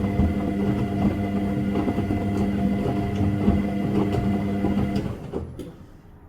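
Washing machine running with a steady motor hum, then winding down and stopping about five seconds in, with a single click as it stops.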